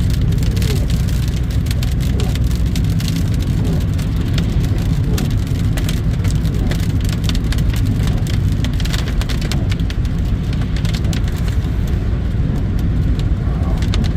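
Hail pelting a moving car's roof and windshield, heard from inside the cabin: a dense, irregular patter of hard clicks over the steady low rumble of the car on the road. Very loud.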